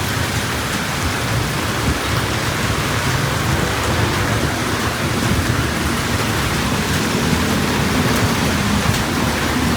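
Heavy rain falling, a dense, steady hiss of rain on the street and surfaces.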